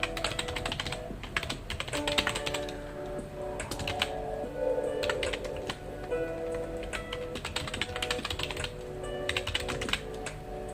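Typing on a computer keyboard in short bursts of rapid key clicks with brief pauses between them, over soft background music with held notes.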